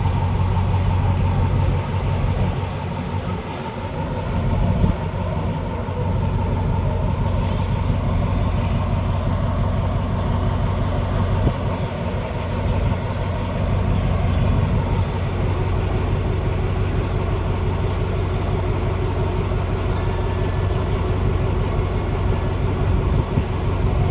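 Large diesel-electric locomotive engine running steadily with a deep, evenly pulsing note.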